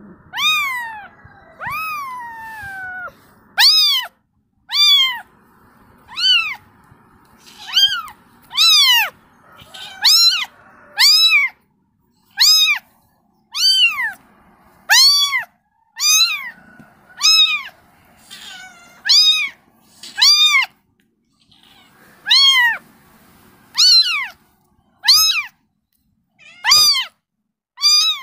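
Kitten meowing repeatedly, calling for its mother: about two dozen short, high-pitched meows, roughly one a second, each rising and then falling in pitch, the first few longer and sliding down.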